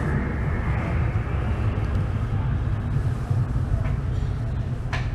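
Airport people-mover train running, a loud steady low rumble with a faint high whine that fades in the first second, and a sharp click near the end.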